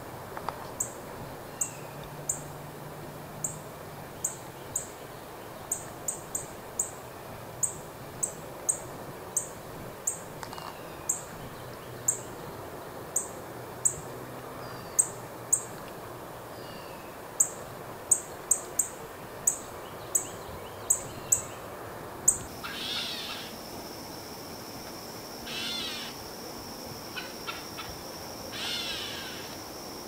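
A bird's sharp, very high chirp, repeated irregularly about once or twice a second. About three-quarters of the way through, the sound changes to a steady high trill with four harsh, raspy calls over it.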